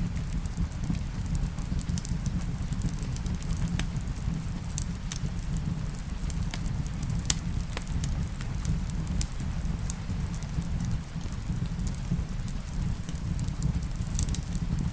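Wood fire crackling in a fireplace: irregular sharp pops over a steady low rumble, with one louder pop about halfway. Steady rain runs underneath.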